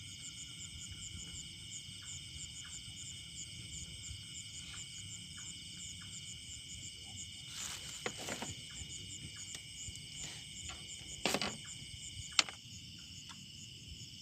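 A chorus of insects trilling steadily in several high-pitched bands. A few sharp knocks or clicks come through it about halfway through and near the end.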